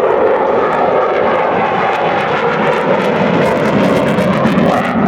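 F-22 Raptor's twin jet engines running loud in a demonstration pass, a steady roar whose pitch shifts slowly, with a crackling edge about three to five seconds in.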